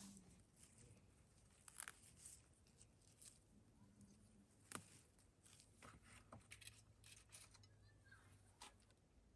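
Near silence, with faint, scattered clicks and ticks at irregular intervals.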